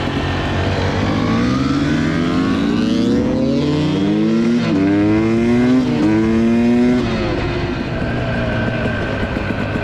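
Dirt bike engine revving up under acceleration. Its pitch climbs, drops back sharply twice and climbs again, then settles to steady running about seven seconds in.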